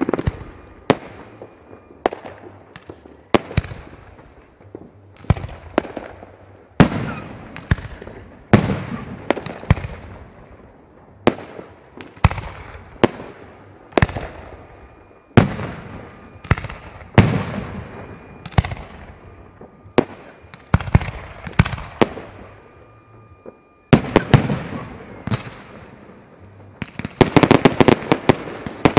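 Fireworks going off: a long series of sharp bangs about one to two seconds apart, each fading away, turning into a rapid crackling near the end.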